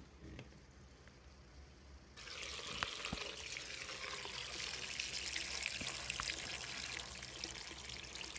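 Wash water pouring steadily from a portable washing machine's drain into a sink, starting abruptly about two seconds in.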